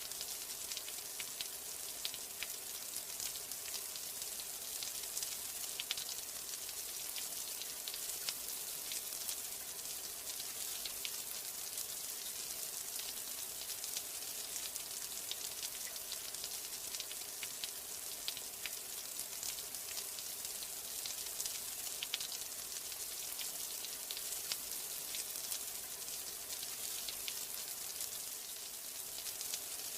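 Steady rain, an even hiss with many small sharp drop ticks scattered through it.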